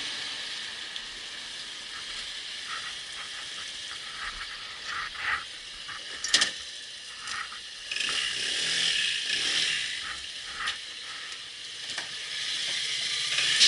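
Scattered clicks and light clanks of hand tools being handled, with a sharp click about six seconds in and a stretch of hiss a couple of seconds later.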